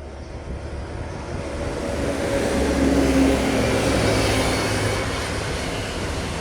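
Heavy diesel truck passing by: engine hum and tyre noise build to a peak about three seconds in, then slowly fade.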